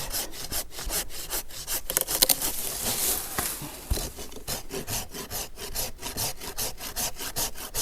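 Hand saw cutting through a thick olive branch in quick, even back-and-forth strokes, about five a second. The cut is nearly through and the branch is about to give way.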